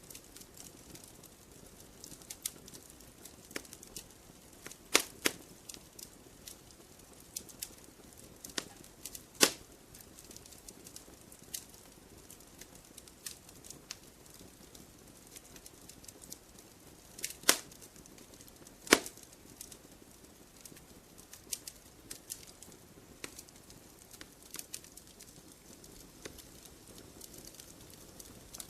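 Wood fire crackling in a fireplace: a low steady hiss with irregular sharp pops and snaps, a few louder ones standing out.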